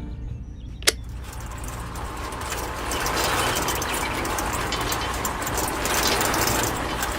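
Motor and gears of a miniature model machine running with a steady hum and a fast gear rattle, after a sharp click about a second in; the rattle grows louder about three seconds in.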